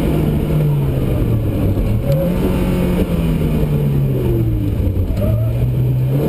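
Rally car's engine heard from inside the cabin, driven hard on a special stage. The revs drop about a second in, climb again at about two seconds, then sink slowly and pick up again at the very end.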